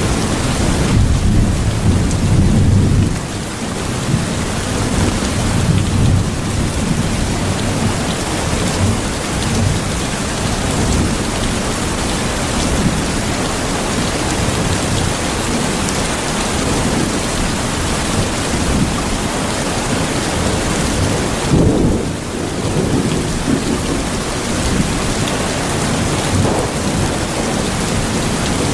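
Steady heavy rain with thunder rumbling low underneath, swelling most strongly about two seconds in and again about 22 seconds in.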